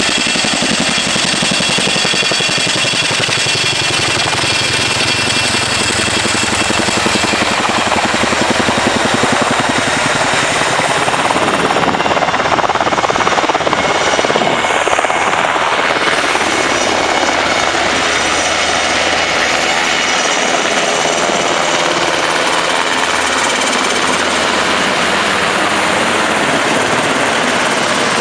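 Helicopter running close by: a rapid rotor blade chop under a high turbine whine, steady and loud, rising a little about halfway through.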